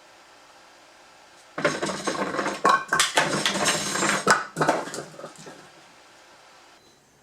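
Firewood clattering down a culvert-pipe chute: a sudden dense run of wooden knocks and clatter starting about a second and a half in, lasting about three seconds, then dying away.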